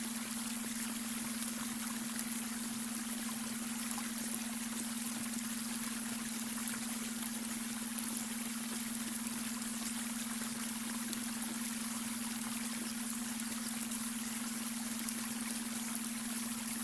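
Babbling brook: steady, unbroken trickling and rushing water. Under it runs a steady low hum, the beta brainwave tone mixed into the water sound.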